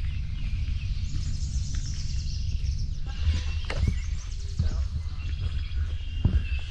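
Several songbirds singing at once in spring woodland, high chirps and fast trills overlapping, over a steady low rumble.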